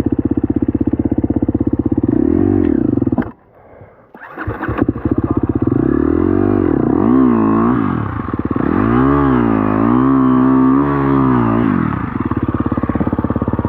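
Dirt bike engine running at a steady low pulse. About three seconds in it briefly cuts out almost completely, then picks up again. Its pitch then rises and falls several times as the throttle is worked, before settling back to a steady idle near the end.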